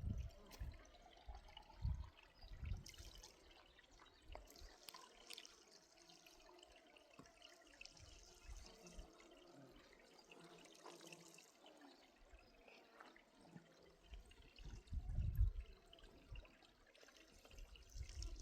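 Faint trickling water. Low rumbles come in the first few seconds and again about fifteen seconds in.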